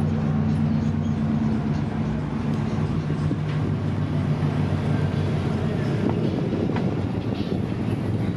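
A vehicle engine running at a steady low speed, its even hum giving way to a general traffic rumble about five seconds in.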